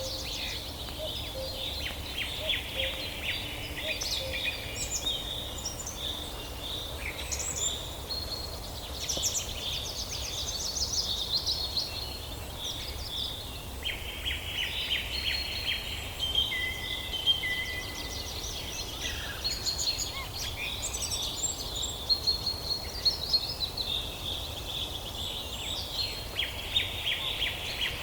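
Several songbirds singing and calling over one another: rapid trills and chirps, with a low steady rumble beneath.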